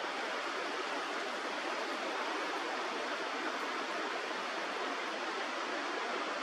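Steady rushing of a river's flowing water, an even noise that holds constant with no distinct events.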